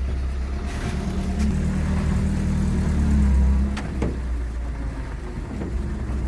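A motor vehicle's engine running with a low rumble, revving up over the first few seconds and easing off just past the middle, followed by a couple of sharp knocks.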